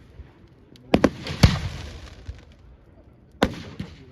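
Fireworks going off: a quick cluster of three sharp bangs about a second in, the last the loudest, then two more near the end, each trailing off in a rumble.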